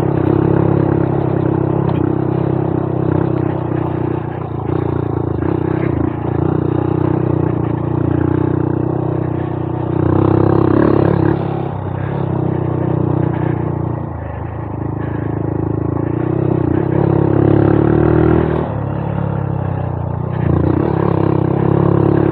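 Honda Monkey 125's single-cylinder four-stroke engine running under way on a dirt trail, its pitch and loudness rising and falling as the throttle is opened and eased every few seconds.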